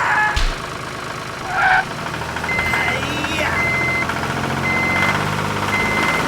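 Vehicle reversing alarm beeping about once a second, one high tone each time, over a low steady engine idle. Short squeaky voice-like chirps come in twice.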